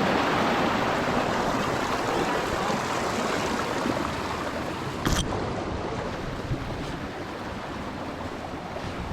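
Rushing water of a desert-canyon stream or waterfall, a steady even rush that slowly grows fainter, with one sharp click about five seconds in.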